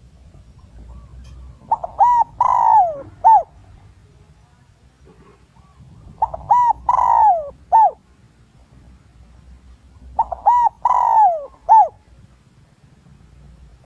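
Spotted dove cooing: three phrases about four and a half seconds apart, each a few short coos, a longer coo that falls in pitch, and a short closing coo. It is the male's call used as a decoy to lure wild males in to fight.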